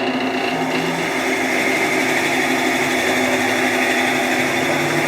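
Entry-level wood lathe running steadily, a motor hum under an even high whirring hiss.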